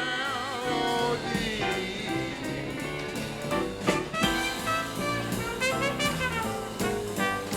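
Jazz music led by brass and saxophone, with melodic horn lines over a beat and a sharp hit about four seconds in.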